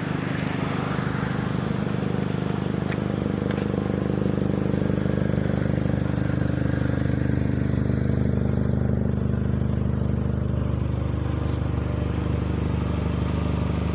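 A vehicle engine idling steadily, with an even low-pitched beat.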